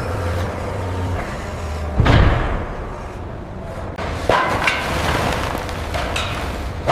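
A steady low rumble with a heavy, deep thud about two seconds in, then sharper knocks and clanks around four seconds in.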